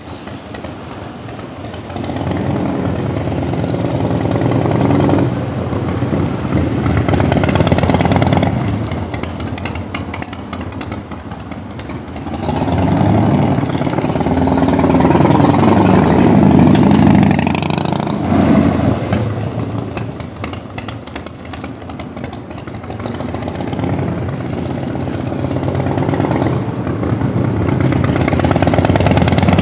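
A 1997 Harley-Davidson Bad Boy's carbureted Evolution V-twin engine running, revved up several times with the pitch rising and falling, between quieter stretches at lower revs.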